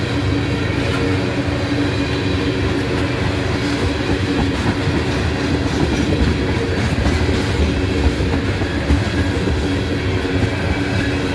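Freight train of empty tank cars rolling past close by: a steady rumble of steel wheels on the rails, with a faint hum and scattered clicks.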